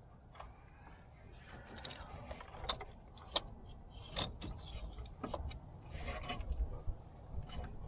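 Hand work on the car: scattered clicks, knocks and scraping, sharpest from about two seconds in, over a low rumble.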